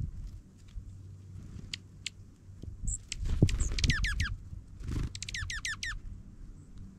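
Dark-eyed junco trilling twice, each trill a quick run of repeated down-slurred notes, the second one longer, over low rumbling thumps.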